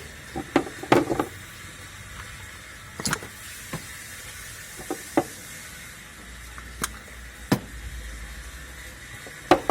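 A few sharp clicks and knocks at irregular intervals, the loudest about a second in and just before the end, over a faint steady low hum.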